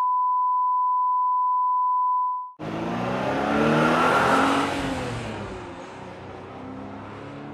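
A steady, high test-tone beep stops about two and a half seconds in. A car engine sound then starts suddenly, swells to a peak and fades away.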